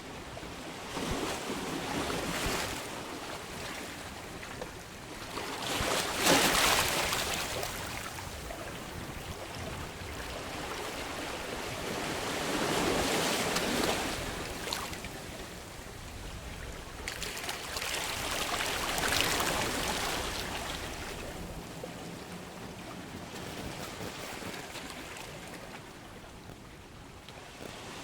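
Ocean waves breaking and washing on the shore, swelling and fading about every five to six seconds, the loudest a quarter of the way in.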